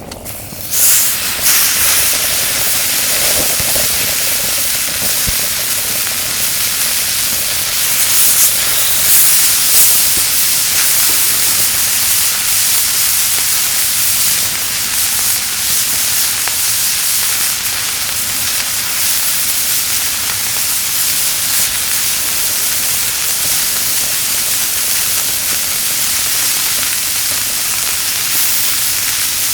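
Meat sizzling on a hot plate set on a kerosene heater: a loud, steady sizzle that starts abruptly about a second in.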